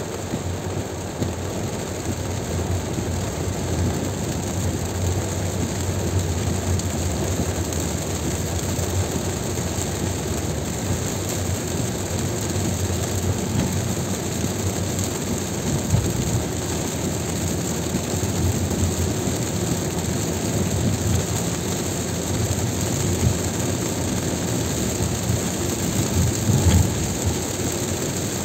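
A car driving in heavy rain: a steady rush of rain and tyres on the wet road over a low rumble, with a few brief louder bumps about halfway through and near the end.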